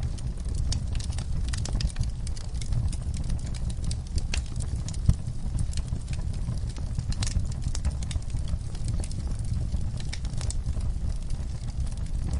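Wood fire burning in a fireplace: a steady low rumble of flames with frequent sharp crackles and pops, one louder pop about five seconds in.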